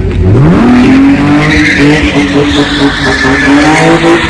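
A V8 muscle car revs sharply up and is held at high revs while it spins its rear tyres in a donut, the tyres screeching from about a second and a half in.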